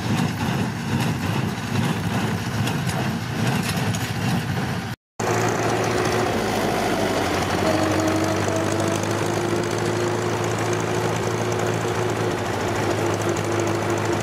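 Farm tractor diesel engine running steadily, with a hard edit about five seconds in to another stretch of engine running that carries a faint steady whine.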